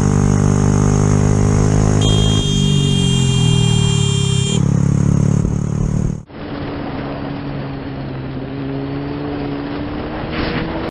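Motorcycle engine running loudly, its pitch shifting about two seconds in. An abrupt cut a little after six seconds switches to a quieter, steadier engine sound.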